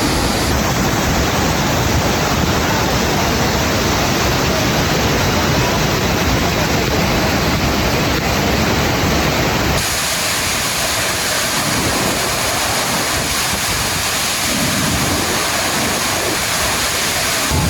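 Looking Glass Falls, a waterfall pouring into its pool: steady, loud noise of falling water. About ten seconds in, the deep low rumble abruptly thins.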